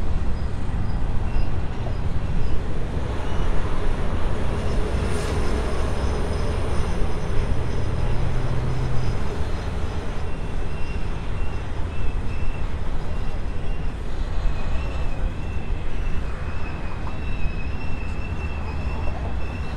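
Coal train hopper wagons rolling past, a steady rumble and clatter of wheels on rail. From about halfway through, a thin high wheel squeal comes and goes.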